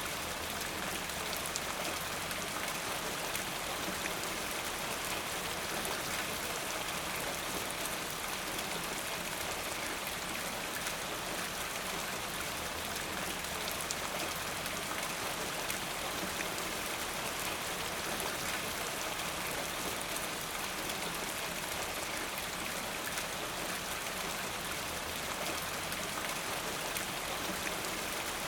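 Steady rain falling, an even hiss of many drops with fine patter on a surface.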